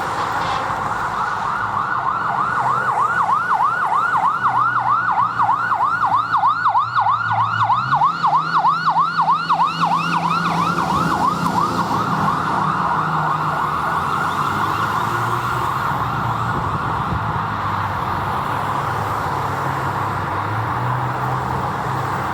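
E-One fire engine's siren yelping rapidly, about three sweeps a second, then settling into a steadier tone about halfway through. The truck's engine runs underneath and steps up in pitch about eight seconds in as it accelerates.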